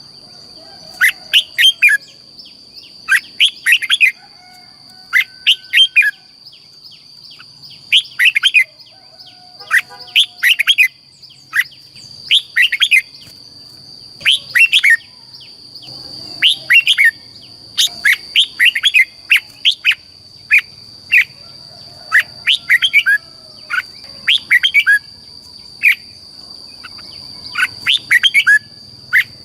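Red-whiskered bulbul singing: short phrases of quick, falling whistled notes, repeated every second or two. A steady high tone runs underneath.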